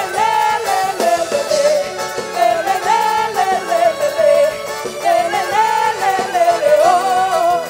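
Forró-style festa junina music from a live regional band, with a wavering sung or played melody line over the accompaniment.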